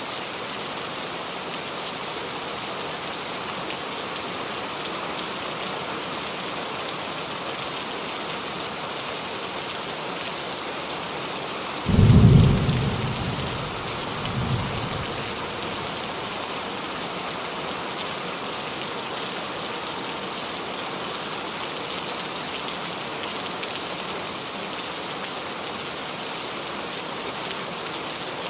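Steady rain falling on a roof. Near the middle, a sudden thunderclap rumbles low and loud for a second or two, followed by a smaller second rumble.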